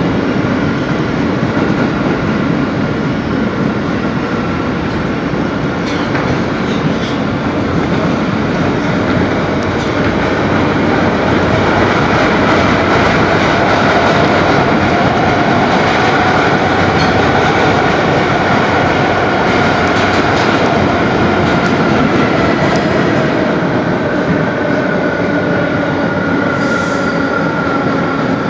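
Interior of an R160B subway car running between stations: a steady rumble of wheels on the track with scattered clicks over the rail joints, and a faint whine that drifts slowly in pitch.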